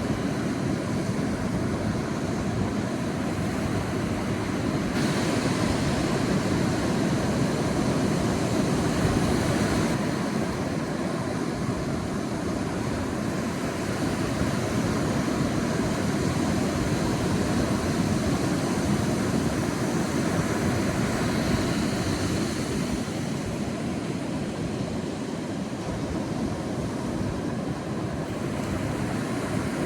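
Ocean surf washing onto a beach: a steady, unbroken rush of waves, with a stronger hiss for a few seconds from about five seconds in.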